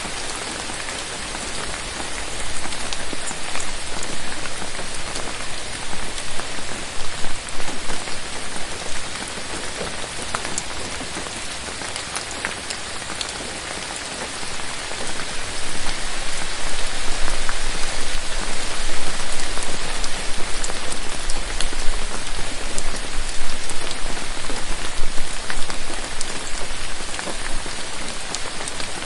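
Steady rain falling on forest foliage, with single drops ticking sharply through the hiss. It swells louder twice, from about two to nine seconds in and again from about fifteen to twenty-six seconds in.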